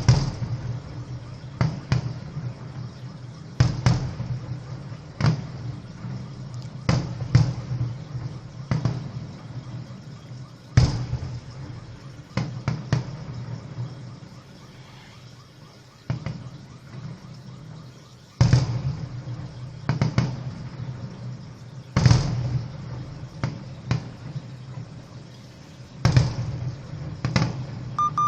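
Fireworks display: aerial shells bursting one after another, a bang every second or two, each with an echoing tail, and a few heavier booms about a third of the way in and again about two-thirds of the way in.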